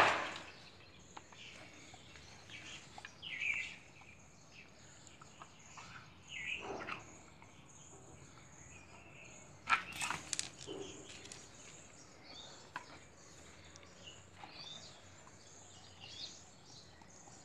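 Faint bird chirps in the background, with a few scattered knocks and rustles: one right at the start and another about ten seconds in.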